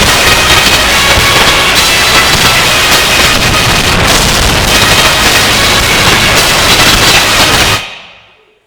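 Extremely loud, heavily distorted music from the church sound system, so overdriven that it is mostly a harsh roar of noise. This is the accompaniment for the opening song. It cuts off and fades out near the end.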